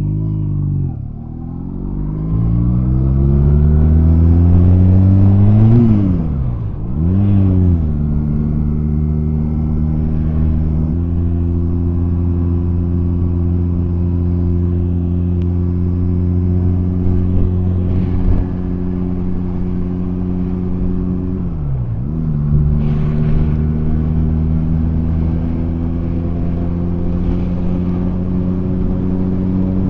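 Honda Rebel 250 motorcycle engine accelerating through the gears: its pitch climbs and drops back at each upshift in the first several seconds, holds steady at cruise, dips at another shift about 22 seconds in, then slowly climbs again.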